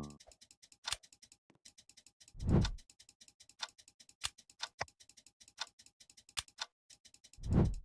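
A run of sharp, clock-like ticks, like a countdown timer. Twice, about five seconds apart, a louder, deeper sound swells up for about half a second and fades.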